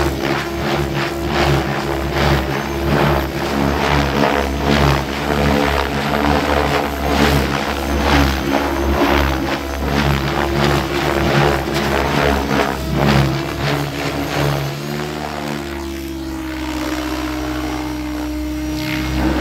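KDS Agile 7.2 700-size RC helicopter flying 3D aerobatics: the main rotor whirs with rapid, repeated blade whooshes as the pitch changes. About 15 s in, the rotor settles into a smoother, slightly lower steady hum.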